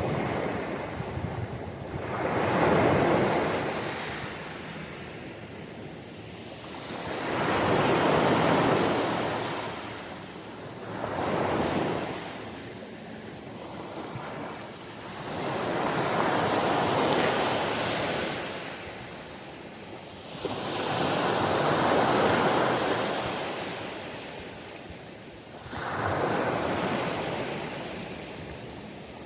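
Ocean waves breaking and washing up the shore, the surf swelling and fading away about six times, every four to six seconds.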